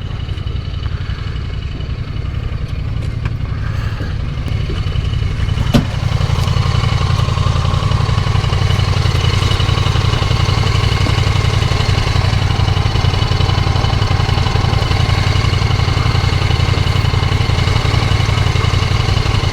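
Side-by-side UTV engine running on the trail, growing louder about six seconds in, with one sharp knock just before.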